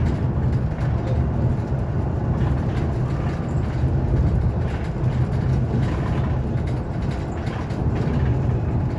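Steady low rumble of road and tyre noise inside the cabin of a moving Hyundai Elec City battery-electric city bus.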